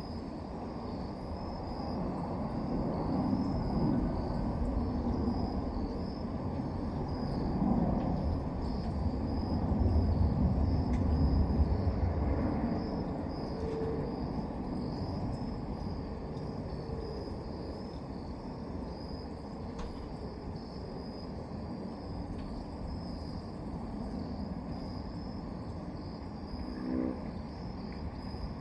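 Crickets chirping steadily in a fast, even high pulse, over a low rumble that builds through the first ten seconds or so and then fades. A short pitched sound comes near the end.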